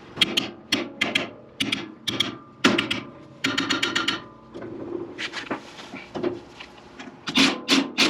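Ratchet wrench clicking in repeated short strokes, about two a second, as it turns the forcing screw of a three-jaw puller. The pulley is seized tight on its shaft and the puller is under strain.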